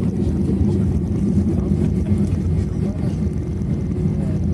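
Steady low rumble of an Airbus A321's cabin on the ground just after landing, with the engines running.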